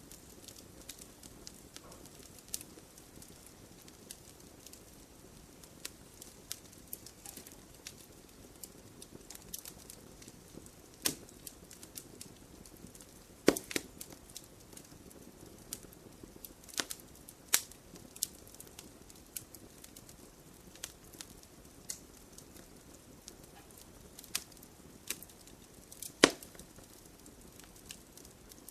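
Wood campfire crackling: a low steady hiss of burning with frequent small crackles and several louder, sharper pops scattered throughout, the loudest about a quarter-second snaps near 13 and 26 seconds in.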